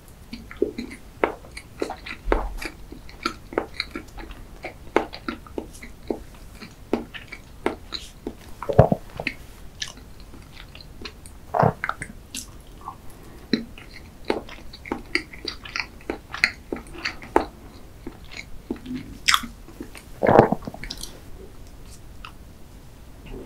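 Close-miked chewing of soft chocolate layer cake with cream filling: a steady run of wet mouth clicks and smacks. A few louder knocks stand out, the loudest near the end.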